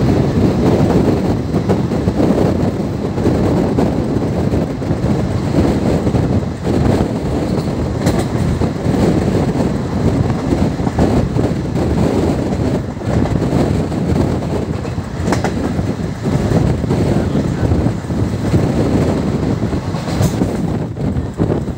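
Moving express passenger train heard from aboard: a steady loud rumble of the coach wheels running on the rails, with a few sharp clicks over rail joints.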